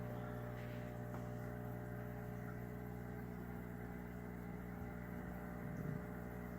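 Aquarium equipment running with a steady low electrical hum, with a faint hiss above it.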